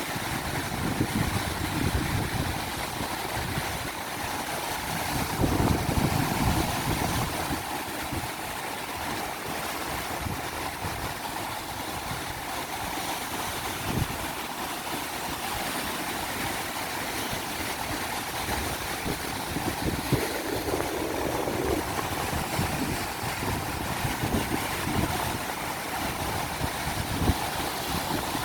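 Ocean surf breaking and washing up a beach, with strong wind buffeting the microphone in uneven gusts, the heaviest gust about five seconds in.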